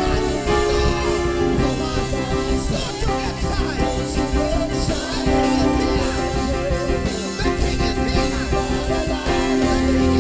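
Worship band music with a singer's wordless vocal runs over held chords and bass.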